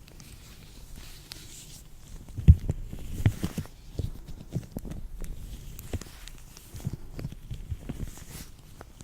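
Gloved hands working latex gloves: irregular squeaks, rubs and small snaps of the rubber. The sounds are sparse at first, then come thickly, with the loudest snap about two and a half seconds in.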